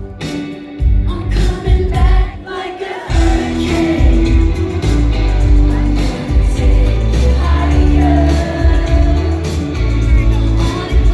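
Live indie-pop band playing a song in concert, with a woman singing lead. After a brief drop about three seconds in, the full beat comes back with heavy bass and drums.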